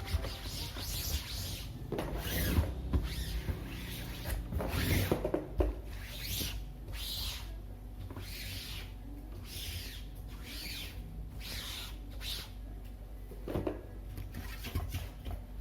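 Repeated rubbing strokes of hand cleaning, such as a cloth or sponge scrubbing a surface, coming about once or twice a second, with a few light knocks in between.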